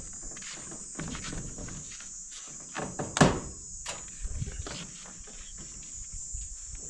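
Steady high insect trilling, with scattered footsteps and knocks; one sharp knock about three seconds in is the loudest sound.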